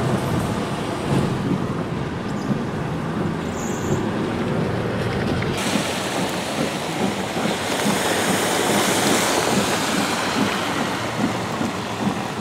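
Steady hiss of heavy rain over the low rumble of a car driving on a wet road. About halfway through, the sound turns suddenly brighter and hissier, the rain heard more openly, and the rumble drops away.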